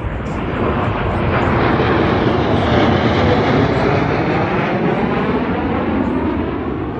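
Blue Angels F/A-18 Super Hornet jets making a pass, their engine roar growing louder to a peak about three seconds in and then fading as they go by.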